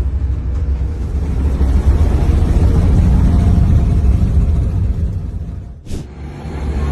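Loud steady low rumble that drops away about six seconds in, cut off by a short click.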